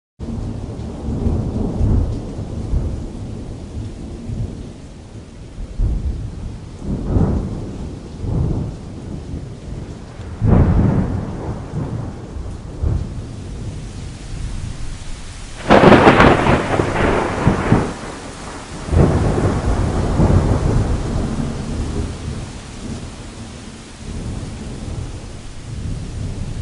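Steady rain falling on canvas under repeated rolls of thunder. Several low rumbles come and go, and the loudest, sharper peal comes just past halfway before trailing into a long rumble.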